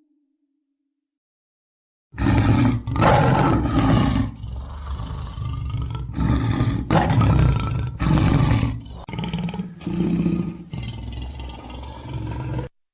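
A large wild animal roaring: a series of loud, deep roars that start about two seconds in and stop abruptly near the end.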